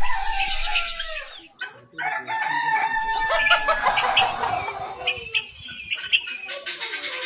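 Chickens clucking, then a rooster crows one long held call about two seconds in, with shorter calls after it.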